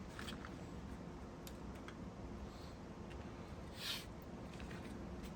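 Faint handling noises of pump parts: a few light clicks and one short scrape about four seconds in, over a low steady background rumble.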